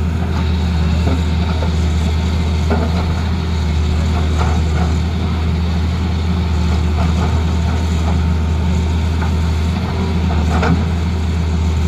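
Tata Hitachi excavator's diesel engine running steadily under work, with a few short knocks scattered through.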